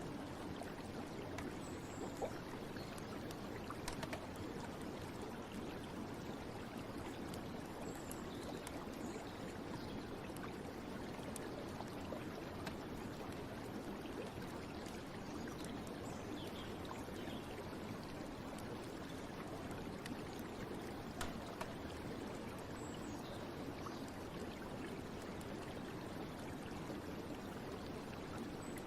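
Steady flowing stream water, an even rushing and trickling, with a few faint high chirps now and then.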